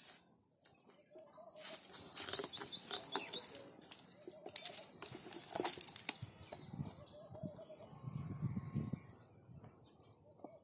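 Birds singing, with a quick run of high, evenly spaced chirps about two seconds in, and a few sharp clicks.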